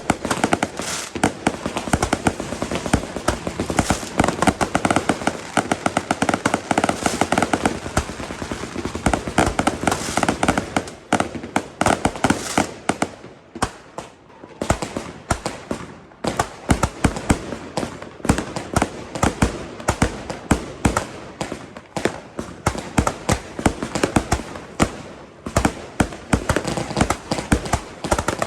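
Fireworks and firecrackers going off in rapid succession: a near-continuous crackling barrage for about the first half, then thinner runs of sharp bangs.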